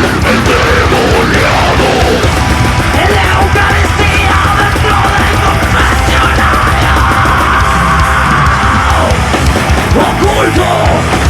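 Live heavy metal band playing loud and dense: distorted guitars, bass and drums, with no vocal line.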